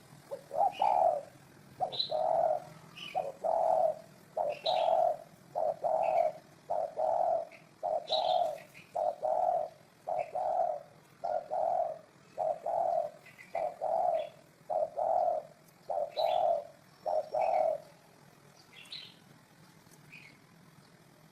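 Spotted dove cooing: a long string of about twenty low coos, close to one a second, that stops a few seconds before the end. Other small birds give short high chirps over it.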